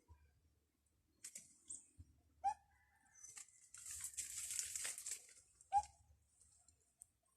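A bird in a tree giving short, sharp calls, twice, a few seconds apart, with a second or so of rustling noise between them.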